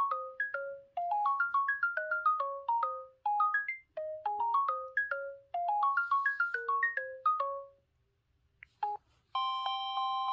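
LG X300 phone ringtone: a melody of short, quickly fading notes in quick rising runs, repeated several times, that stops about eight seconds in. Near the end a different ringtone begins with held chord tones.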